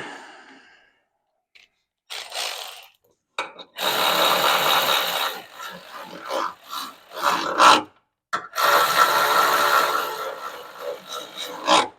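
Hand-held power tool running in bursts with a steady whine in the noise, two long runs of about one and a half to two seconds and several short ones, as the valve cover bolts are driven in.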